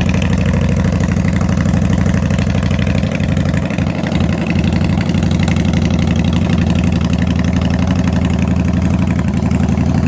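Yamaha motorcycle engine idling steadily after being started.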